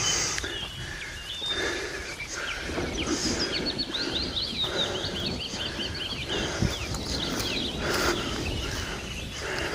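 A small bird sings a quick run of high chirps over rhythmic crunching footsteps on a rough dirt or gravel road.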